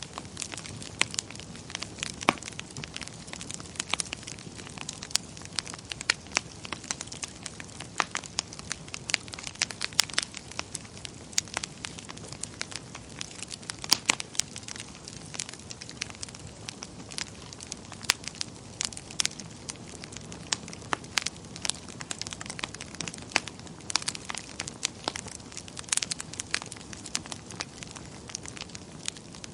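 Wood fire burning in a fireplace: a steady low rush of flames with frequent sharp, irregular crackles and pops from the burning logs.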